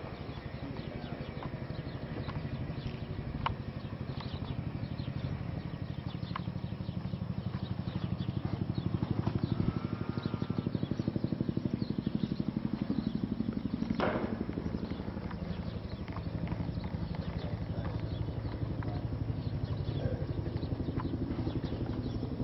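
Vehicle engine running steadily: a low rumble with a fast, even pulse, broken by a few sharp knocks or cracks, the loudest about two-thirds of the way in.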